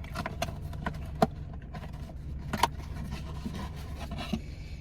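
Paper wrapper of a fast-food burger being unwrapped and handled: irregular crinkling with scattered sharp crackles, over a steady low hum.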